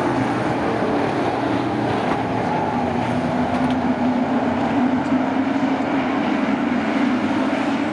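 Several race trucks' engines running together on a short oval track at a fairly steady pitch that drifts gently up and down.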